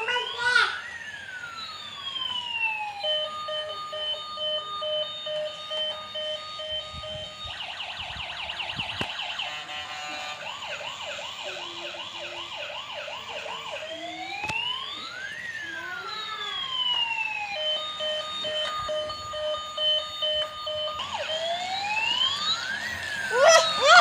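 Electronic ambulance siren cycling through its patterns: long rising-and-falling wails, a steady alternating two-tone hi-lo, and a rapid warbling yelp about a third of the way in, before returning to the wail and the two-tone.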